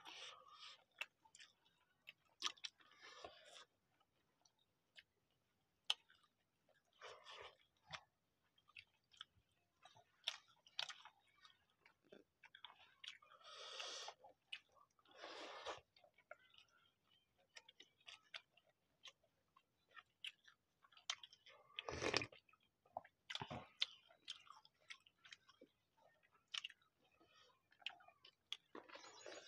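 Faint chewing and mouth sounds of people eating biryani rice by hand, with scattered small clicks and smacks and a few brief louder rustles, the loudest about three-quarters of the way through.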